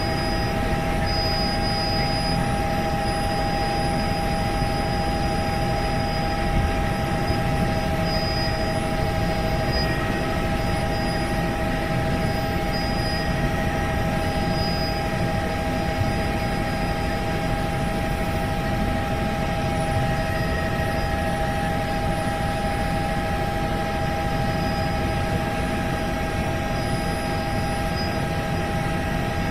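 Helicopter in steady flight: continuous engine and rotor noise with a high, steady whine running through it.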